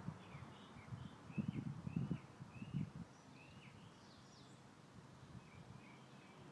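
A songbird singing a quick series of short, repeated chirps, about two a second, then a few higher notes and faint chips near the end. Low wind gusts buffet the microphone in the first half and are the loudest sound.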